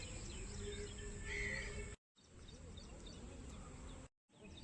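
Outdoor ambience: small birds chirping over a steady low rumble of background noise. It drops out to silence twice, briefly, about two seconds in and just after four seconds, where the footage is cut.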